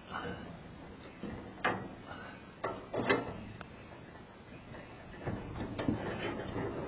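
Metal scaffolding parts knocking and clanking as a brace is worked onto the frame: a few separate sharp knocks, the loudest about three seconds in.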